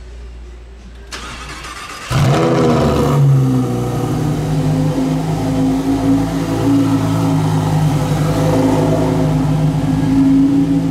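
Lamborghini Huracán STO's 5.2-litre V10 starting up. It fires about two seconds in with a rising flare of revs, then settles into a steady idle.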